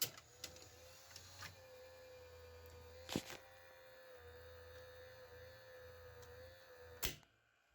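Panasonic PV-1200 VCR's motor-driven mechanism running with a steady whine and hum, marked by a click at the start, another about three seconds in, and a last one about seven seconds in as it stops. The machine's rubber drive belts are worn, which the owner blames for its failure to take up tape.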